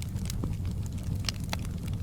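Wood fire in a fireplace crackling: a steady low rumble of the flames with scattered sharp pops and snaps.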